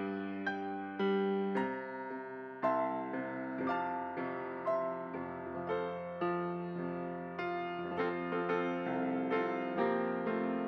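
Piano or electric keyboard playing slow, gentle chords as an offertory, each chord struck and left to ring out.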